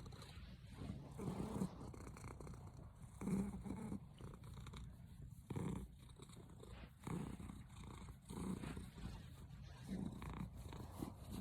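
Domestic cat purring close up, a low steady rumble that swells louder every two seconds or so at uneven intervals, an irregular, 'misfiring' purr.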